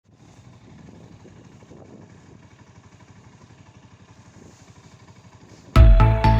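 Spark SP200R-28 motorcycle engine running faintly with a fast, even pulse. Loud music with a steady beat cuts in suddenly near the end.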